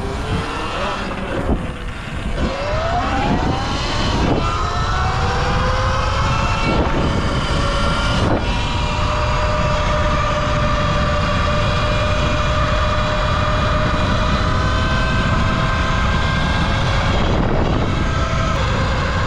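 Falcon Pro 79 electric dirt bike's motor whining, rising in pitch as the bike accelerates a few seconds in, then holding a steady whine at cruising speed. Underneath is a loud low rush of wind and tyre noise, with a few brief knocks.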